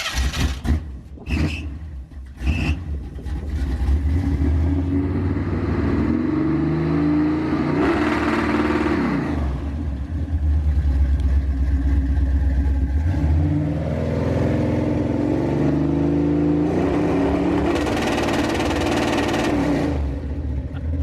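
Carbureted V8 street-truck engine catching after being started, then revved up twice and held at the two-step launch limiter, the exhaust popping while it is held.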